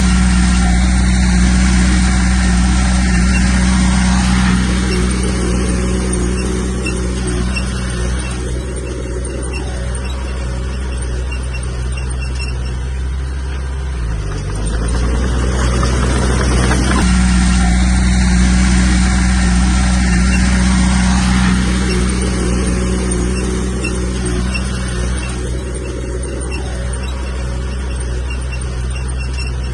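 Komatsu bulldozer's diesel engine running steadily while pushing soil, its pitch dipping briefly twice as the load changes.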